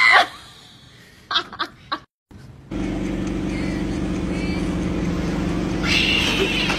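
A short, loud wailing cry at the start, then a few sharp clicks; after a brief cut, a steady low mechanical drone.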